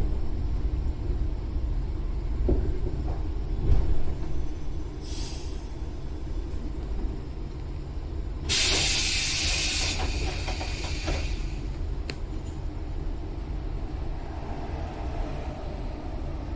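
Inside a JR 115-series electric train slowing to a stop: a steady low rumble, then about eight seconds in a loud burst of compressed-air hiss lasting a second or two from the train's air system, followed by a few clicks as the doors open.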